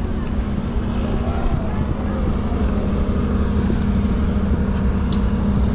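A vehicle on the move: a steady low rumble with a constant low hum.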